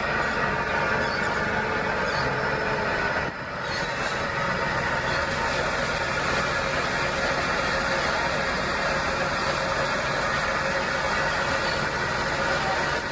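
Machinery running steadily, dropping briefly in level about three seconds in.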